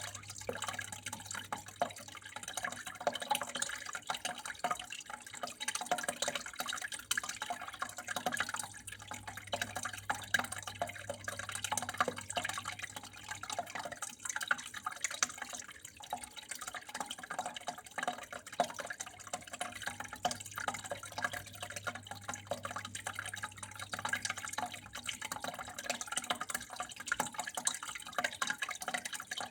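Water flowing and splashing steadily, a continuous trickle made of many small irregular drips and splashes, with a low steady hum underneath.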